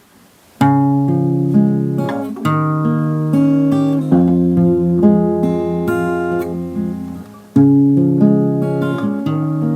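Acoustic guitar playing a song intro of plucked chords and single notes, starting about half a second in.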